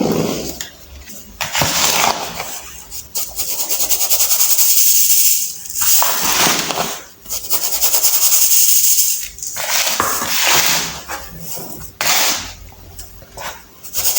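Blocks of baking soda crushed and crumbled by hand: a run of grainy, crackling crunches, each lasting a second or two, with short pauses between them.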